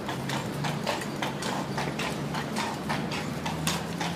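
A carriage horse's hooves clip-clopping at a steady walk, about four hoof strikes a second, over a low steady rumble.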